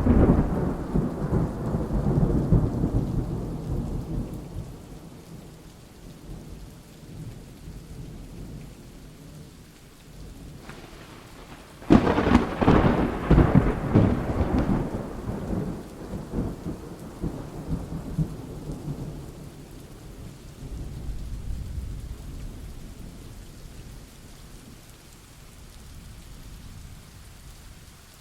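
Thunderstorm: thunder rumbling and fading over the first few seconds, then a sharp thunderclap about twelve seconds in that rolls on and dies away, and a fainter rumble later, over steady rain.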